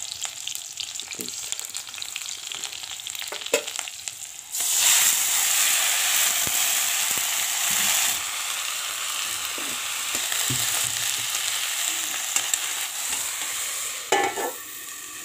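Onion sizzling in hot oil in a black iron kadai. About four and a half seconds in, the sizzle suddenly gets much louder as leafy greens are dropped into the oil, then eases a little and runs on. Near the end a metal lid clatters onto the pan.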